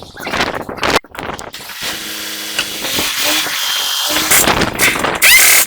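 A power tool running steadily, then louder near the end with a few short squeaks.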